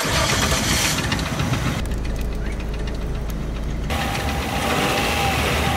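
Car engine running with a thumping knock, the kind that appears once the engine is warm and turns into a twang when the throttle is pressed.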